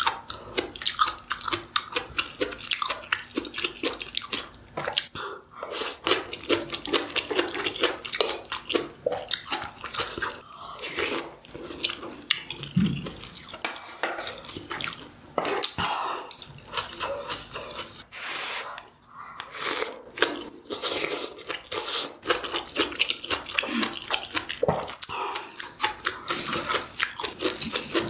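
Close-miked chewing and biting of food, a dense run of small clicking mouth sounds several times a second, broken by a few short pauses.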